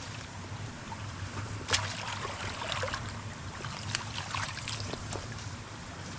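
Creek water running steadily, with a few brief splashes and knocks of debris being pulled from the water, the sharpest about two seconds in.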